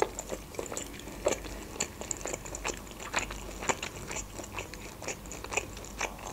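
A person chewing a mouthful of boiled pelmeni (meat dumplings) with the mouth closed: a run of irregular, short mouth clicks, several a second.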